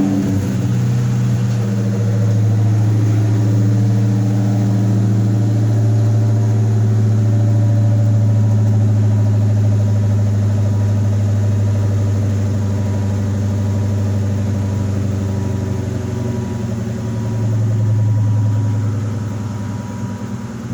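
2004 SVT Mustang Cobra's supercharged 4.6-litre V8 at a cold-start fast idle just after firing, breathing through a catless Bassani X-pipe and Magnum Flow exhaust. The idle holds steady, swells briefly near the end, then settles slightly lower.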